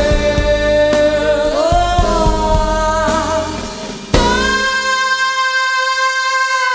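A female singer performs a slow jazz ballad over bass and drums, holding long notes. About four seconds in, the bass and drums drop away and she sustains one long high note almost alone.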